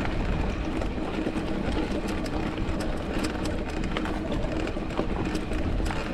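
Mountain bike rolling over a rough, rocky trail: steady tyre rumble with frequent rattling clicks from the bike.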